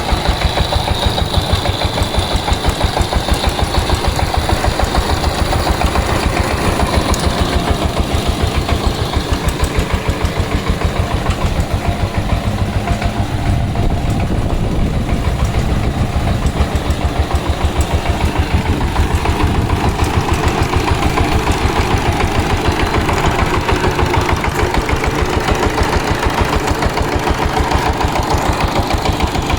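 Power tiller's engine running steadily, with an even, rapid chugging pulse.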